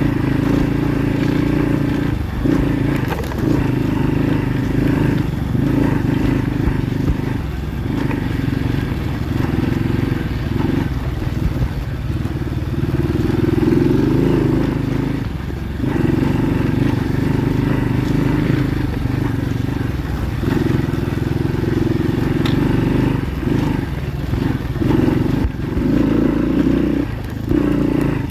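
Kayo pit bike engine running under way, revving up and easing off again and again as the throttle is worked, with a longer climb in revs about halfway through.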